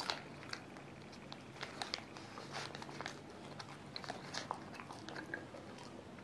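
Close-up biting and chewing of a crispy cream puff with a crumbly crust: many small, irregular crunching clicks.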